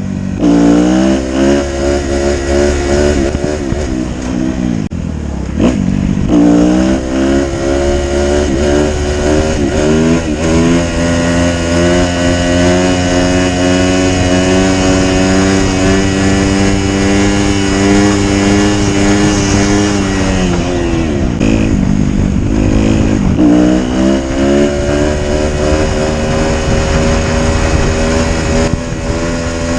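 Kawasaki KX250F single-cylinder four-stroke dirt bike engine through a full FMF 4.1 RCT exhaust, revving hard. The pitch drops and climbs several times with throttle chops, and is held high and steady for a long stretch before falling away about twenty seconds in.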